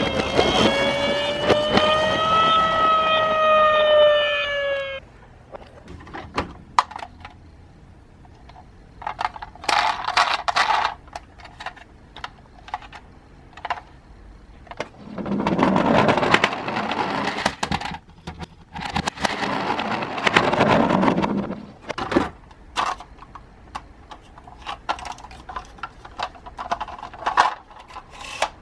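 A siren wails, slowly rising and falling, and cuts off suddenly about five seconds in. It is followed by clicks, rattles and bursts of rolling noise from small toy minicars being run over a hard play course.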